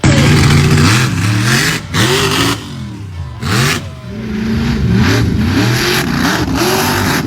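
Monster truck engine revving hard and repeatedly, its pitch swooping up and down with each stab of the throttle.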